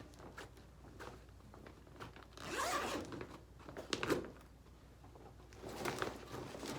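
A zipper being pulled in a few short rasping strokes, with small clicks and rustles between them.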